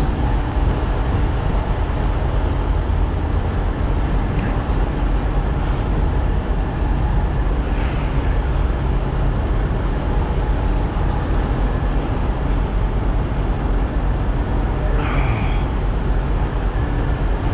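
Semi truck's diesel engine idling steadily, with a few faint brief sounds over it.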